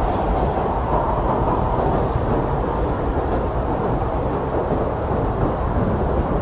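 Strong blizzard wind blowing steadily: a deep, continuous rush of noise with a slight swell in the first couple of seconds.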